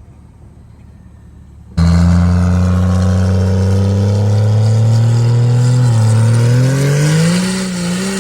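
A vehicle engine comes in suddenly and loud about two seconds in. It holds a steady pitch, then climbs and wavers as it is revved, and starts to drop back near the end.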